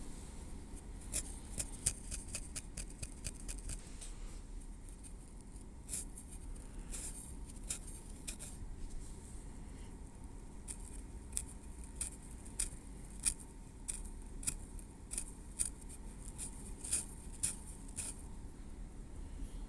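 Tweezers clicking close-up as they work through hair on a scalp: irregular sharp, light ticks with a faint scrape. They come thickly in the first few seconds, thin out in the middle, then pick up again.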